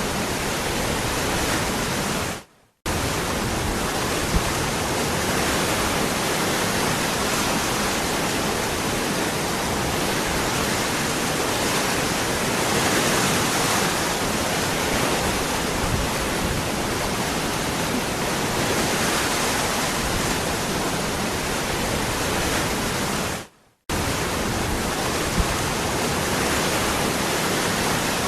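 Waterfall rushing as a steady, even roar of water. It cuts out briefly twice, once about two seconds in and again a few seconds before the end.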